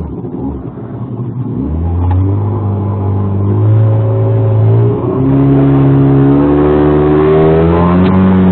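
Engine running under load and speeding up, its pitch climbing steadily. It drops back briefly about five seconds in, then climbs again.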